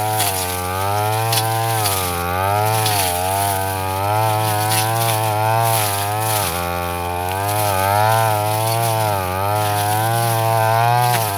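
Petrol brush cutter running at high revs. Its pitch sags and recovers every second or so as it works through tough grass, with a deeper dip about six and a half seconds in.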